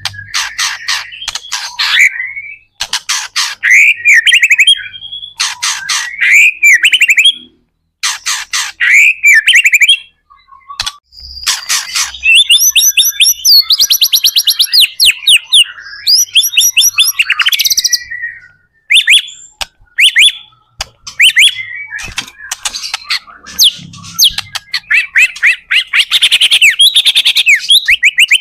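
White-rumped shama (murai batu) in full, vigorous song: bursts of rapid trills and whistled phrases, with short pauses between bursts in the first half and almost unbroken song from about halfway through.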